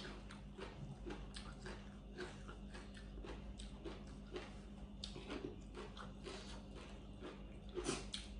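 A person chewing and smacking while eating spicy long bean salad with her fingers: a string of soft, irregular mouth clicks, with a louder click at the very start and another near the end.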